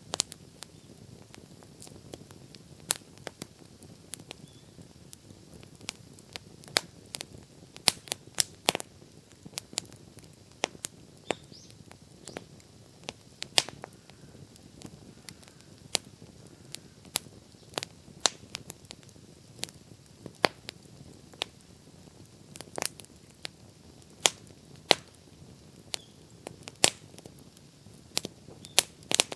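Wood campfire crackling, with sharp, irregular pops over a faint low hiss.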